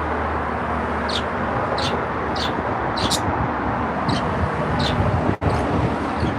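Small pet birds giving short high chirps, roughly one every half second, over a steady rushing background noise like passing traffic.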